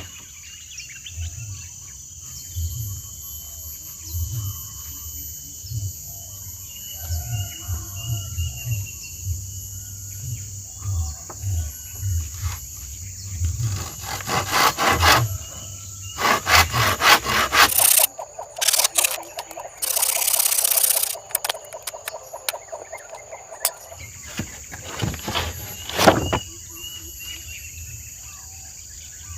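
A steady high insect drone with irregular low knocks. Several loud stretches of rough scraping or rustling noise come in the middle and again near the end.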